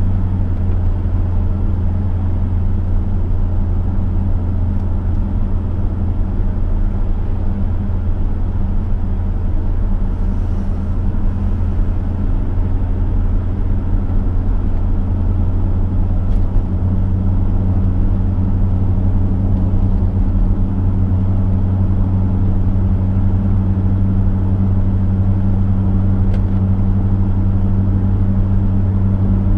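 Chevrolet V8 engine droning steadily at cruising speed with road and tyre noise, heard from inside the car.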